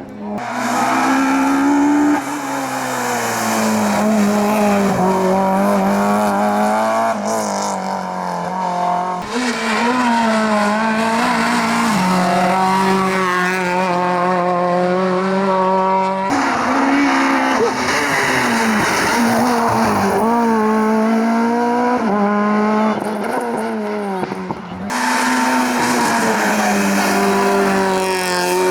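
Hillclimb racing cars at full attack, engines revving hard and shifting up and down through the gears, with tyres squealing at times. The sound cuts abruptly from one car to another about 9, 16 and 25 seconds in.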